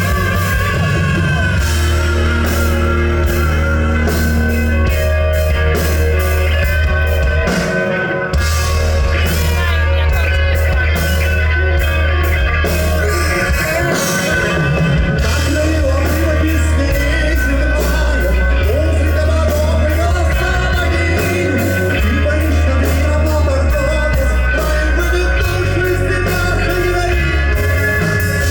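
Rock band playing live, with a singer over electric guitar, bass and drums; the bass holds long notes that change every couple of seconds.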